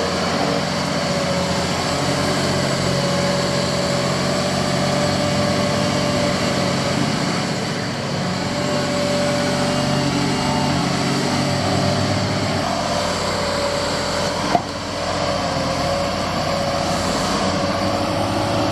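Excavator's diesel engine running steadily, with a steady whine held above the engine note. A single sharp knock sounds about three-quarters of the way through.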